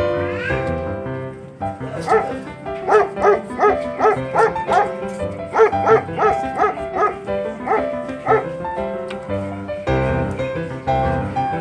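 A dog gives a rapid series of short, pitched yelps, about three a second for several seconds, over background piano music.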